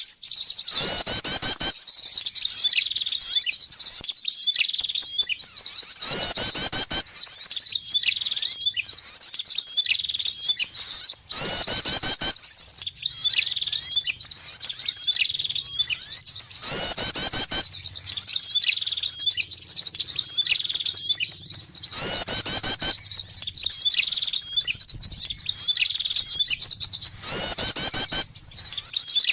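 Bird-lure recording of small songbirds, prinia (prenjak) among them: dense, fast, high-pitched twittering and chirping without pause, with one distinct call repeating about every five and a half seconds, as in a looped lure track.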